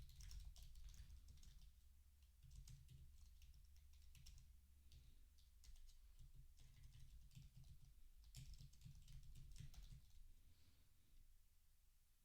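Faint computer keyboard typing: irregular runs of key clicks with short pauses, over a low steady hum.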